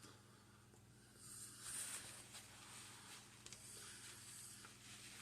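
Near silence: a faint steady low hum with light hiss and a few faint soft clicks.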